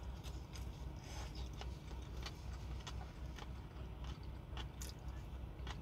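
Close-up chewing: a run of short wet clicks and smacks from a mouthful of vegetable salad, over a steady low drone.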